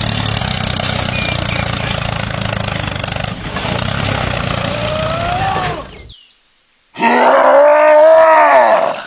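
Small motor running steadily, then cutting off about six seconds in. After a short silence comes a loud, pitched groan lasting about two seconds that rises and falls in pitch.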